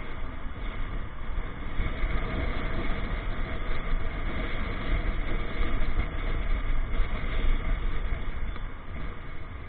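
Wind and road noise from a motorcycle in motion, a steady low rumble that swells and falls slightly, dipping a little near the end.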